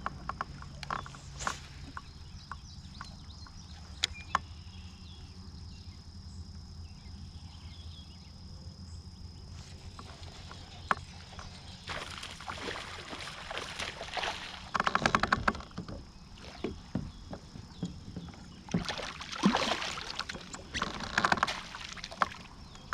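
Kayak on the water: water sloshing around the hull, with scattered clicks and knocks of gear being handled and two stretches of louder rapid rattling, one in the middle and one near the end.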